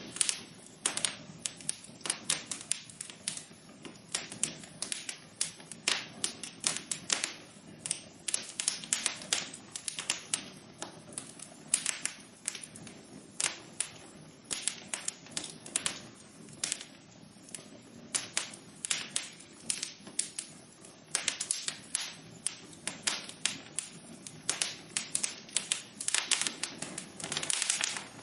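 Wood fire in a fireplace crackling: a dense, irregular run of sharp snaps and pops, several a second, over a soft steady hiss of burning.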